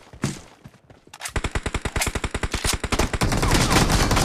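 Automatic rifle fire in a video game shooter: after a quiet second with one dull thud, a long burst of rapid, evenly spaced shots starts and keeps going.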